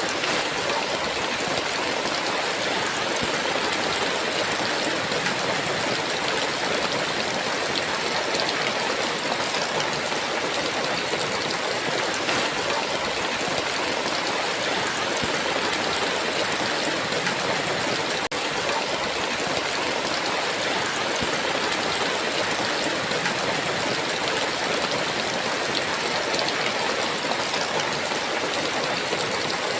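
Heavy rain pouring down steadily: a dense, even hiss with no thunder, interrupted only by a momentary dip in level a little past halfway.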